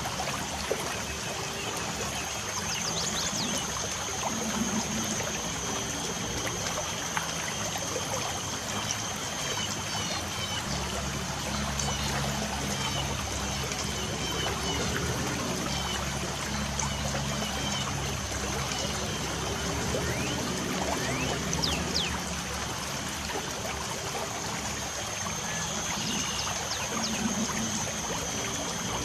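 Light rain falling in a steady, even patter, with birds giving short, scattered chirps every few seconds. A thin, steady high tone runs behind it.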